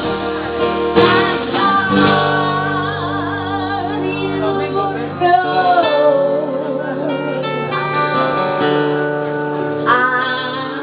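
A woman singing long, wavering notes with vibrato over acoustic guitar accompaniment.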